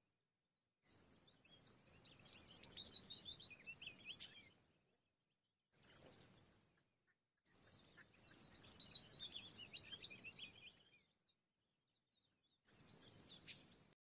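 Birds chirping and twittering in rapid high notes, in four bursts of one to four seconds each with near-silent gaps between them. A thin, steady high tone comes and goes with each burst.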